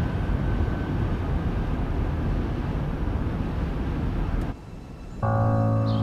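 Steady low rumble of a car driving, cutting off suddenly about four and a half seconds in. After a short lull, a low sustained chord of tense music begins.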